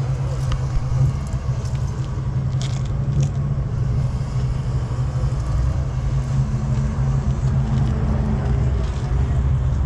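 Car engine running steadily, a constant low rumble with a steady hum, with a few faint clicks about three seconds in.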